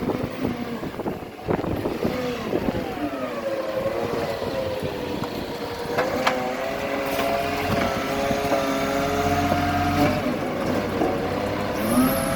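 Garbage truck engine running, its pitch sinking early on and then holding steady, with a few sharp knocks and clunks over it.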